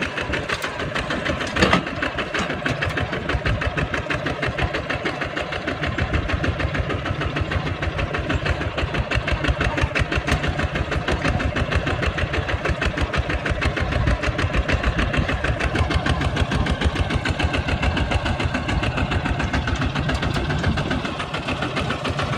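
Kubota tractor's diesel engine running steadily with a rapid firing beat. There is one sharp knock about two seconds in, and the low rumble grows stronger about six seconds in.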